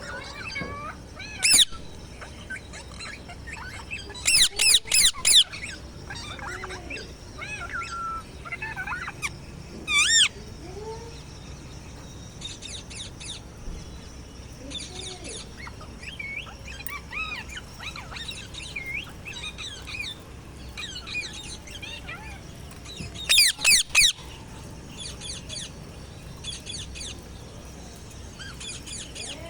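Pet parrot calling: loud harsh squawks in short bursts, a few seconds in, around four to five seconds, at ten seconds and again near twenty-four seconds, with softer chirps and whistles in between.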